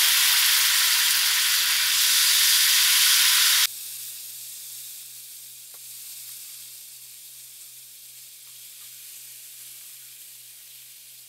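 Soaked, shredded cabbage sizzling loudly as it goes into hot oil with fried onions and spices. About four seconds in the sizzle drops suddenly to a much quieter, steady fry with a few faint clicks.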